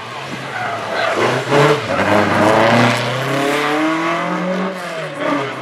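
Classic rally car's engine revving hard through a hairpin on a stage. Its pitch climbs as it accelerates and is loudest about two seconds in, with a short dip near the end like a gear change before it climbs again.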